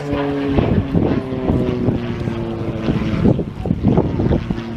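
Light propeller aircraft engine droning, its pitch falling slowly as it goes past, with wind buffeting the microphone.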